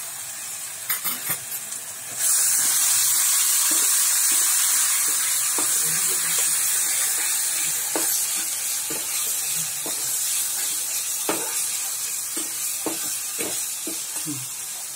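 Onion-tomato masala and ground spices frying in oil in a wok, with a loud sizzle that starts suddenly about two seconds in and slowly dies down. A steel spatula scrapes and taps against the pan as the masala is stirred.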